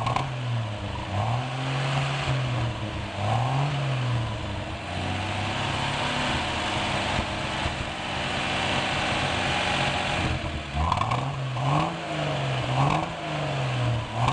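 1964 Chevrolet Chevelle's 194 cubic-inch straight-six running through a dual-tip exhaust, freshly restarted. It is blipped several times in the first few seconds, settles to a steady idle in the middle, then is revved in several quick blips again near the end.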